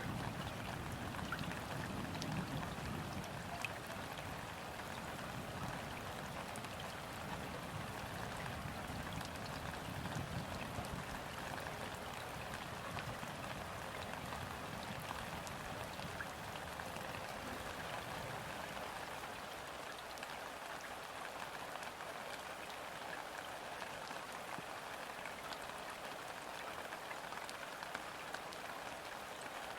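Steady light rain falling onto a river's surface, an even patter of many small drops. A low rumble underneath dies away about two-thirds of the way through.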